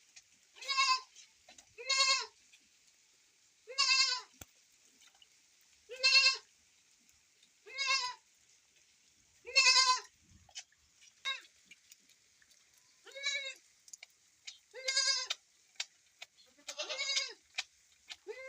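A goat bleating over and over, about ten short calls, one every couple of seconds, each with a wavering, quavering pitch. Faint short clicks come between the calls.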